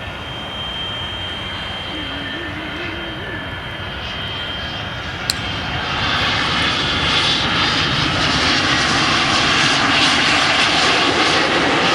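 Airliner's engines running, a broad rushing noise with a faint high whine, growing clearly louder about six seconds in as the aircraft comes closer.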